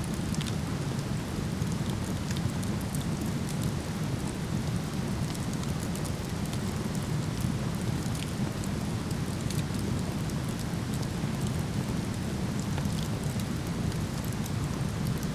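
Waterfall rushing in a steady, unbroken roar, with scattered faint crackles from a wood fire.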